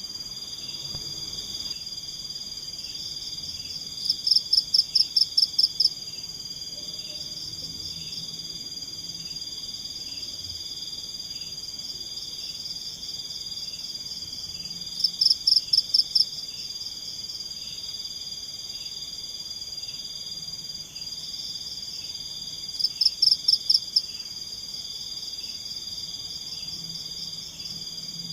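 Forest chorus of insects and frogs: a steady high-pitched trill with a faster regular pulsing under it. Three times, about four, fifteen and twenty-three seconds in, a louder call of rapid pulses rings out for about two seconds.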